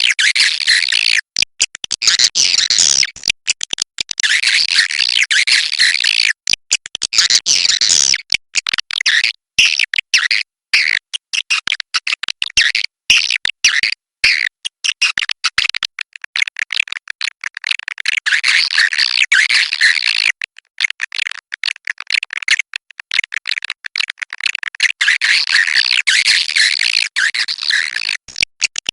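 Swiftlet calls: dense, rapid twittering chatter in bursts with short gaps, somewhat weaker for a few seconds past the middle. This is the 'inap' roosting call played to lure swiftlets to settle and nest in a swiftlet house.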